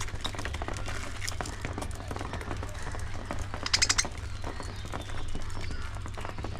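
A flock of budgerigars in an aviary chirping and chattering, with many short high calls and a quick run of sharp chirps a little under four seconds in, over a steady low hum.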